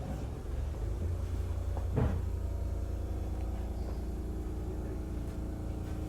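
Inside a Sotetsu 8000 series electric train car at a station stop: a steady low rumble of the train's equipment, a single knock about two seconds in, then a steady multi-tone electrical hum.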